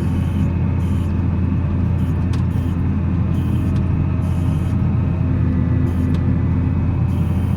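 Volvo L70C wheel loader's diesel engine running steadily under work, a deep even drone.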